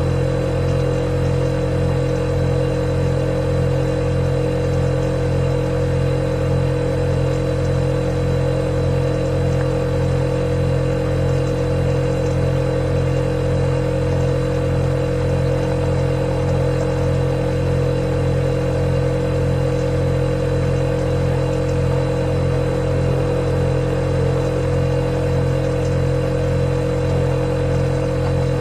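Refrigerator running with a steady, unchanging hum: a deep drone with a clear higher tone above it.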